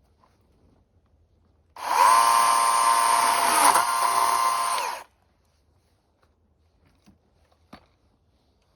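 Electric power-tool motor spinning up, running at a steady high speed for about three seconds, then winding down and stopping.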